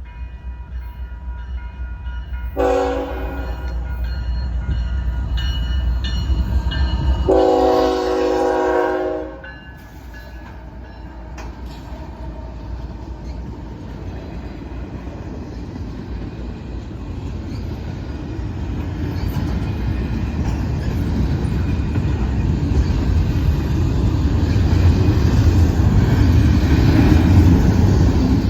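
South Shore Line electric commuter train sounding its horn for the grade crossing: a short blast, then a longer one about five seconds later. Afterwards a low rumble of the train and wheels on the rails builds steadily as it draws near.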